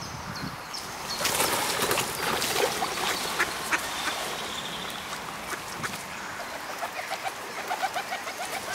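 Birds calling outdoors, ending in a quick run of short, evenly spaced calls. A brief rush of wind noise comes a second or so in.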